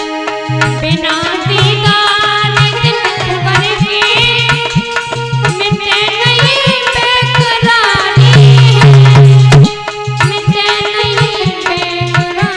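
Indian folk music: a hand drum keeps a steady beat under a wavering melodic line. The drum strokes turn heavier about eight seconds in and break off briefly just before ten seconds.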